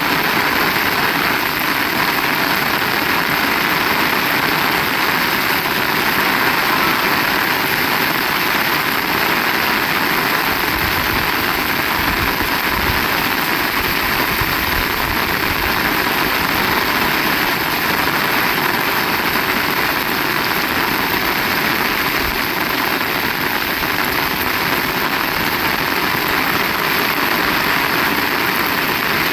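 Heavy rain falling in a steady, loud hiss, with a few low rumbles near the middle.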